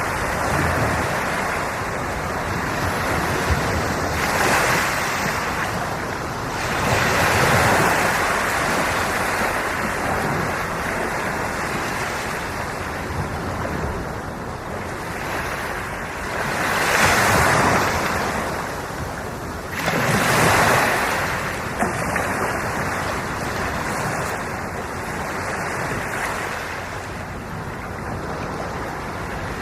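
Sea waves washing onto the shore: a continuous surf wash that swells louder several times as individual waves break and run up.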